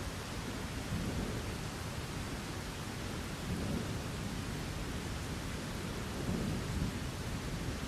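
Steady rain with low thunder rumbling, swelling a few times.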